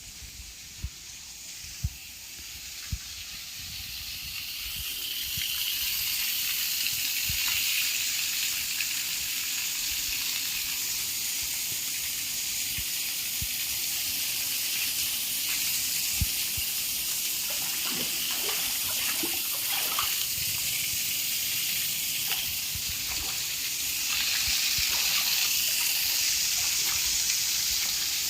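Water running in a steady, hissing gush that builds up over the first few seconds and holds, with a few light knocks near the start.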